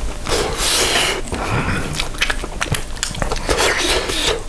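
Close-miked chewing of a mouthful of jjajang ramyeon and beef rib meat: irregular wet mouth sounds with small sharp clicks.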